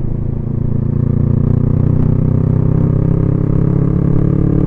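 Motorcycle engine running under way, steady, rising slightly in pitch and loudness about a second in as it picks up speed.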